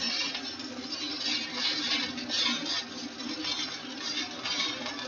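Stick welding arc from a Lincoln Excalibur 7018 rod, 3/32 inch, at about 90 amps: a steady, crackling sizzle.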